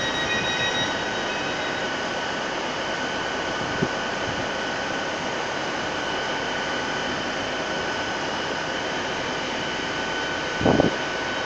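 Passenger train moving slowly along the platform: a steady engine and traction drone with a high whine on top. A short knock comes about 4 seconds in, and a louder thump about a second before the end.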